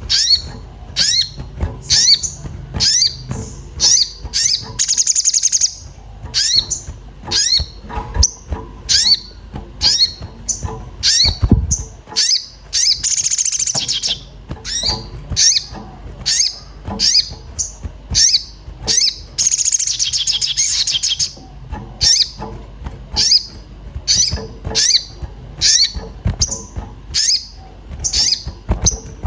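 An agitated sogon (a spiderhunter) giving short, sharp, high 'cuit' chirps over and over, about two a second, broken three times by a longer rapid chattering run. This is the excited calling used as a lure to set other birds calling.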